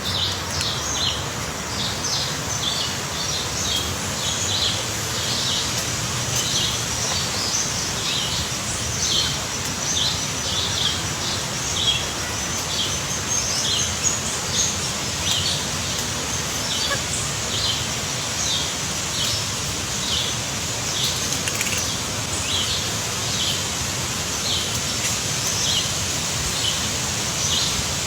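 A bird chirping: short, high chirps repeated about two or three a second over a steady background hiss.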